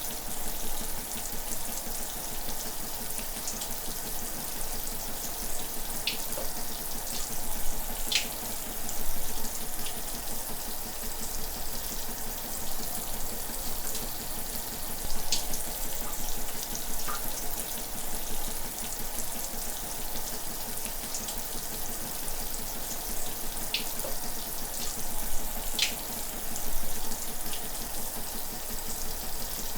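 Shower water running and spraying in a steady hiss, with occasional brief splashes.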